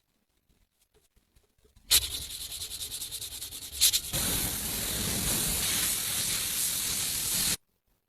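Sanding on the lamp's parts: a rough, fast-pulsing rasp starting suddenly about two seconds in, a sharp click near the middle, then steady abrasive noise that cuts off abruptly.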